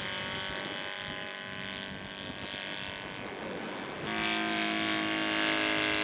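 Saito 270 four-stroke engine of a 1/3-scale Nieuport 17 radio-control model running at full throttle in flight, a steady drone that grows louder about four seconds in.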